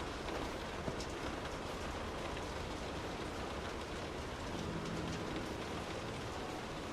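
Steady rain heard from indoors, an even hiss with scattered individual drops ticking.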